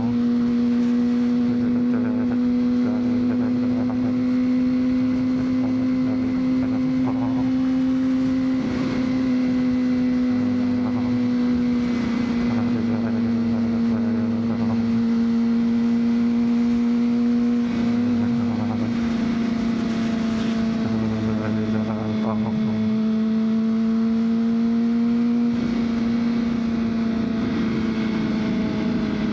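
2003 Honda CBR600RR's inline-four engine running at a steady, nearly constant pitch while cruising. The pitch dips slightly near the end.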